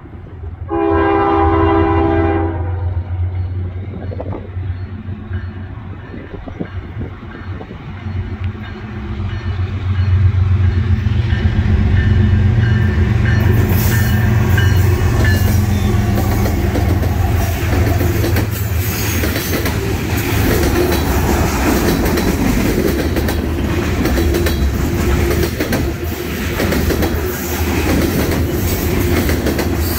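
A diesel freight locomotive's air horn sounds once, for about two seconds, about a second in. Then the Norfolk Southern locomotives pass close by with a deep engine rumble, loudest about ten to fifteen seconds in, followed by the steady rolling clatter of the freight cars' wheels on the rails.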